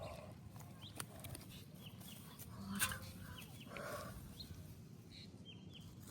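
Birds calling: short, high, falling chirps repeated throughout, with a few lower calls. There is a sharp click about a second in and a louder knock near three seconds.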